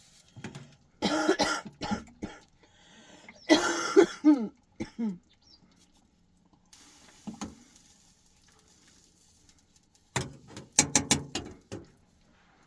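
A woman with a cold coughing hard in three fits: one about a second in, a longer one around four seconds in, and a last one near the end.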